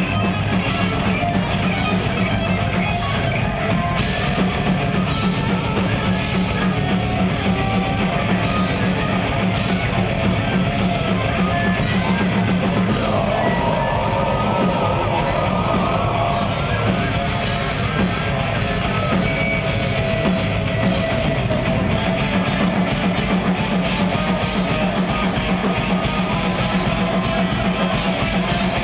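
Live progressive death metal band playing loud and steady: distorted guitars, bass and fast drum-kit playing.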